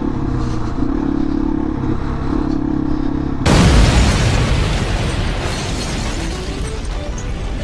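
Yamaha FZ-09 motorcycle's three-cylinder engine running at a steady pitch. About three and a half seconds in, a sudden loud blast of noise covers it and carries on.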